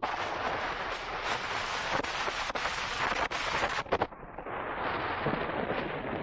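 Skis sliding and scraping over snow on a downhill run, a continuous rush of noise with sharp scrapes, easing slightly about four seconds in.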